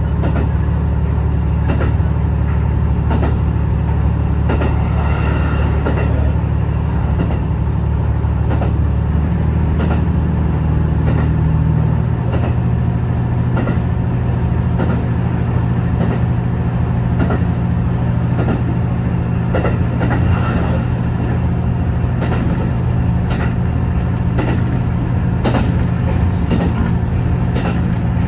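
Hybrid diesel railcar, a JR HB-E210, running with a steady low engine drone that shifts in pitch about ten seconds in, with scattered faint clicks over it.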